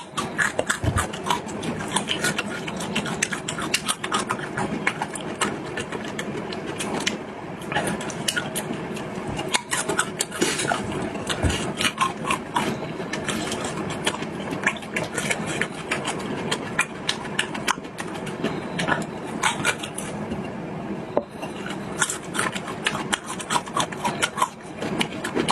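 Close-miked eating sounds: continuous chewing, with dense wet clicks and crunches.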